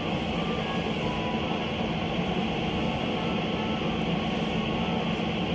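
Room air conditioner running: a steady, even rushing hum with no changes.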